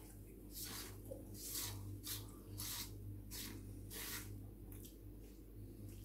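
Close-up eating sounds: pizza crust being picked apart and chewed, a string of short, crackly mouth and food noises about every half second, over a steady low hum.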